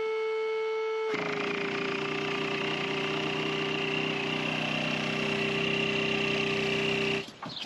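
Electric air pump running to inflate a dinghy: a steady whine that about a second in turns into a louder, airier rush, its pitch dropping slightly. It cuts off abruptly near the end.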